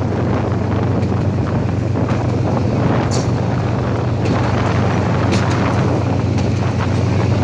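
Moving train's diesel locomotive running steadily with a constant low hum, with wind rushing over the microphone and a few light clicks from the running gear.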